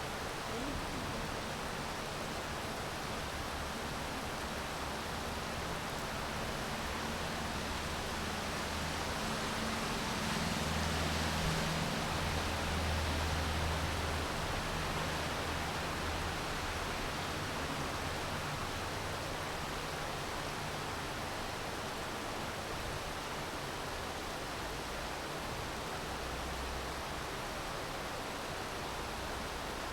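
Steady rain falling in an even hiss, with a low rumble that swells and fades around the middle.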